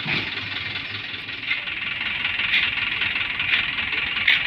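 Engine of a heavily loaded sand dump truck running steadily, with brief swells in level about once a second.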